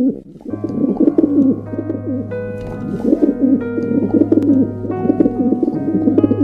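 Dove cooing in repeated low, wavering phrases, with soft sustained music starting about half a second in.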